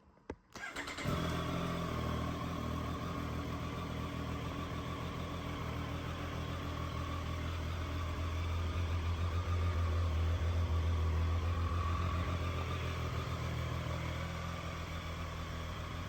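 Triumph Street Triple 765 R's three-cylinder engine starting about a second in and then idling steadily, a little louder for a few seconds past the middle.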